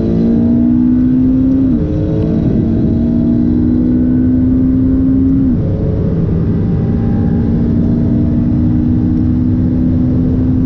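McLaren 570S twin-turbo V8 accelerating hard, heard from inside the cabin. The engine note climbs slowly in each gear, with quick upshifts about two seconds in and about five and a half seconds in, then a long slow climb in a high gear.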